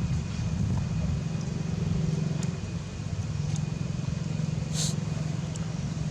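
A motor vehicle engine running steadily, a low, even hum, with a short high hiss about five seconds in.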